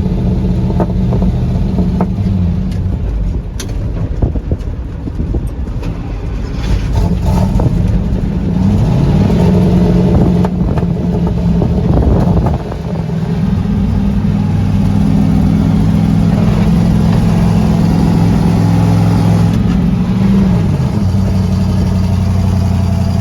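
Vintage International grain truck engine running through its custom exhaust stack while the truck is driven. The revs climb about eight to ten seconds in, drop suddenly around twelve seconds, hold steady, then fall again near the end.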